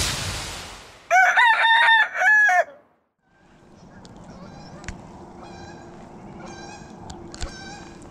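A loud run of arching bird calls about a second in, cut off by a moment of silence. Then steady outdoor background with short, repeated bird calls.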